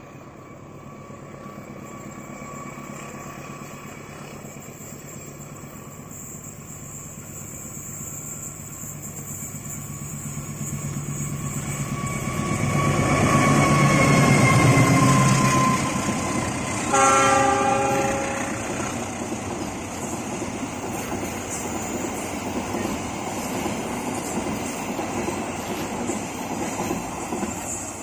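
KAI CC 206 diesel-electric locomotive approaching and passing close, its engine growing steadily louder to a peak about halfway, with a tone sliding down in pitch as it goes by. Just after it passes, a short horn blast sounds, then the wagons roll by with a clickety-clack over the rails.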